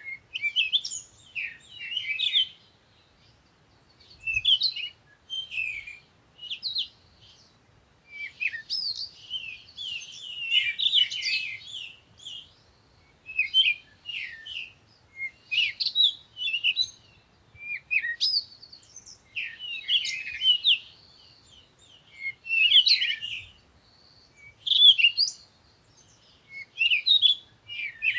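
Songbirds chirping and singing in quick, twittering phrases, one burst every second or two with brief pauses between.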